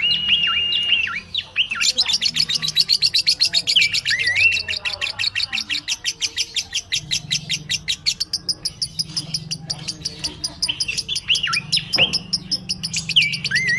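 Cockatiels calling: a few clear whistled notes, each dropping sharply in pitch, over a long run of rapid, high chirps that starts about two seconds in and goes on many to the second.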